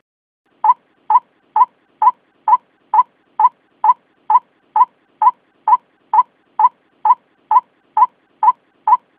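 White-breasted waterhen calls: a short call repeated steadily about twice a second, about nineteen times, used as a lure call to attract the birds.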